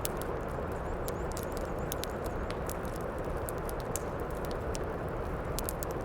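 Heavy rain falling steadily, mixed with a wood fire crackling, with many small sharp pops scattered at irregular moments.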